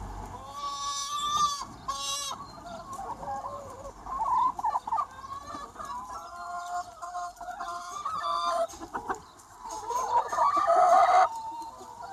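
A large free-range chicken flock clucking and calling, many birds overlapping. Near the end one louder, drawn-out call rises and then cuts off.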